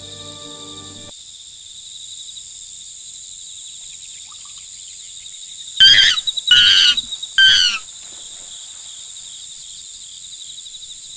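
Crickets trilling steadily and high, with an animal giving three loud calls in quick succession about six to eight seconds in.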